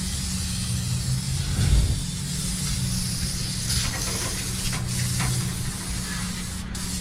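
Aerosol can of engine degreaser hissing as it is sprayed, with stronger spurts about halfway through, over a steady low hum.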